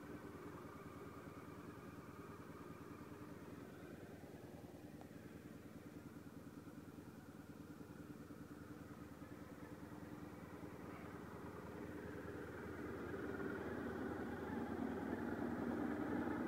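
Honda VFR400R NC30's 400 cc V4 engine idling steadily at an even pitch, growing louder over the last few seconds.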